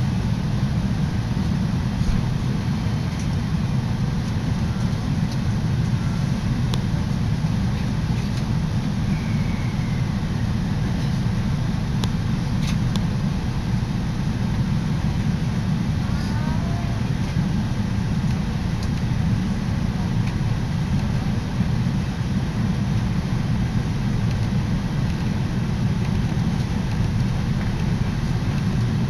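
Steady low rumble of a Tokaido Line electric commuter train running, heard inside the carriage. A brief faint squeal comes about halfway through.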